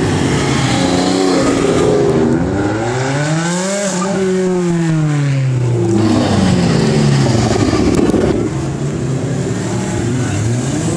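Sports cars driving past one after another, their engines revving: the engine note climbs and falls back about halfway through, again a little later, and rises once more near the end.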